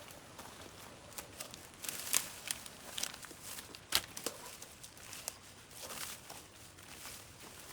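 Dry vines and brush rustling, crackling and snapping as overgrowth is cleared, in irregular crackles with a sharp snap about four seconds in.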